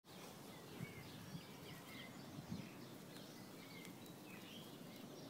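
Faint outdoor ambience with birds chirping: short high chirps every second or so over a low hiss, with a few soft thumps in the first half.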